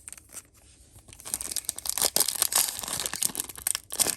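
A foil trading-card booster pack wrapper crinkling and being torn open, a rapid papery crackle that starts about a second in and pauses briefly near the end.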